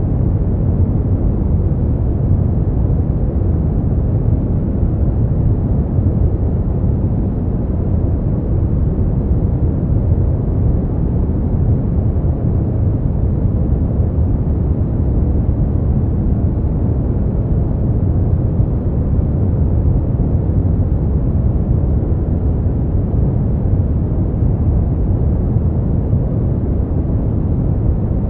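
Steady brown noise: an even, deep rushing hiss, heaviest in the low end and dull at the top, with no change or events.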